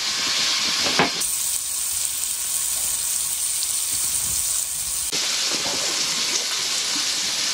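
A slab of ham sizzling steadily in butter in a frying pan, with a single click about a second in.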